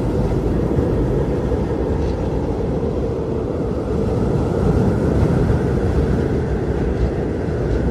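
Strong blizzard wind blowing steadily with a deep rushing sound, a faint higher howl swelling in about halfway through.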